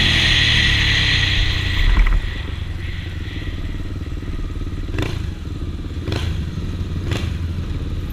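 Motorcycle engine running loudly, then a thud about two seconds in, after which it drops to a quieter, steady low rumble. Three sharp clicks, about a second apart, come in the middle.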